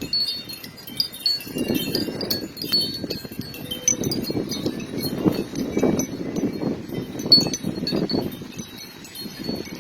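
Wind chimes jangling and tinkling in strong gusty wind, with the wind buffeting the microphone in surges that swell and fade.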